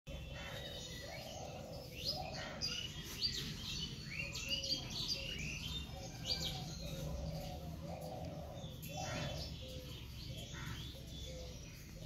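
Birds chirping: many short high calls and quick rising and falling notes throughout, over a steady low hum.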